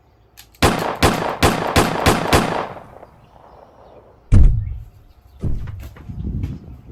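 A rapid string of about six gunshots, each cracking out with a short ring after it, then a single heavy thud a couple of seconds later, followed by scattered lighter knocks.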